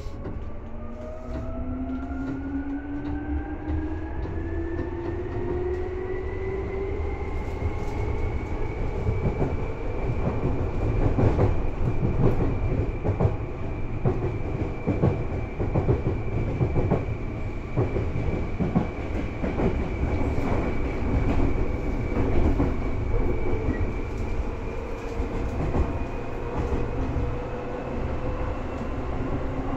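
Seibu 2000 series electric train running, heard from inside the car. A whine from under the floor rises in pitch over the first ten seconds or so as the train picks up speed, then holds near steady, over a continuous rumble with wheels clicking over rail joints.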